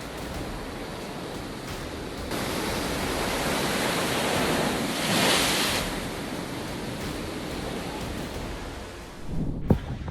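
Heavy storm surf from a cyclone crashing onto the coast, a continuous rushing roar. It swells about two seconds in and peaks around the middle as a wave breaks, then eases. A short sharp thump comes near the end.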